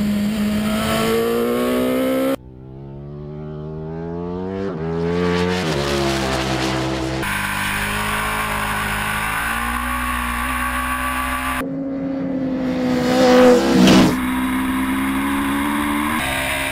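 Sport-bike engines accelerating hard under full throttle, pitch climbing and dropping back at each upshift, in several short cut-together runs. The loudest rush comes about three-quarters of the way through.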